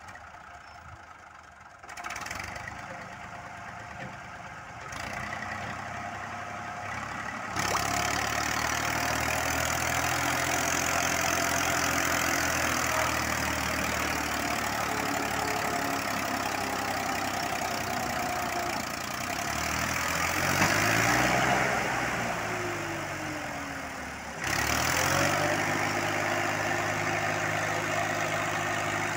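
Tractor engine working under a heavy load of about 3 tons, building up revs in steps over the first several seconds and then running hard. Its pitch rises and falls again about two-thirds of the way through. It drops off briefly near the end before revving straight back up.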